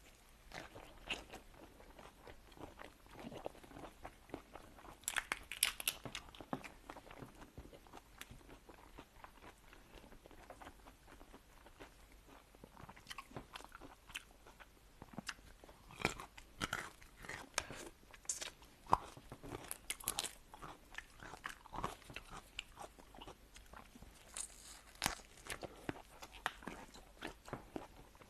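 Close-miked eating of seafood: irregular crunching, biting and chewing, with many sharp cracks and clicks.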